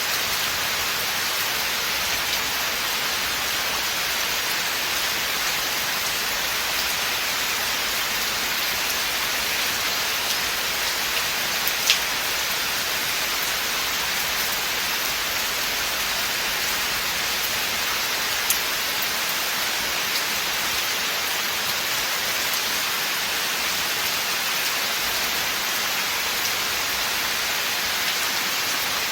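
Steady rain falling in a forest, an even hiss of many drops on leaves and ground, with two sharper single drop hits, one about twelve seconds in and one about eighteen seconds in.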